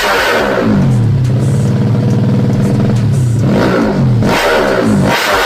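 200cc four-stroke underbone drag-bike engine being revved in quick throttle blips, each rev falling away. About a second in it settles into a steady running note, and near the end the quick blips return.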